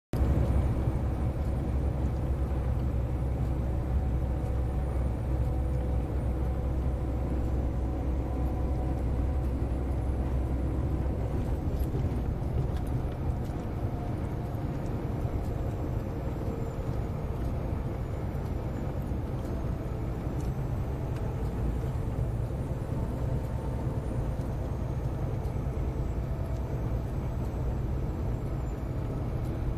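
Scania 143M 470 truck's V8 diesel running steadily with a deep rumble that eases a little about twelve seconds in.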